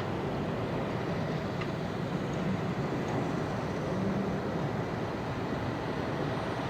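Steady rumble of a jet airliner's engines as it comes in to land.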